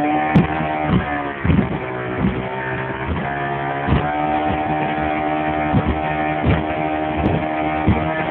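Glastron Carlson C-500 boat's engine running under way with a steady note, broken by short thumps every half-second or so.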